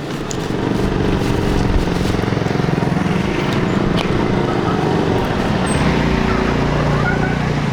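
Motor vehicle engine running steadily, with a steady pitch and even loudness, fading slightly near the end.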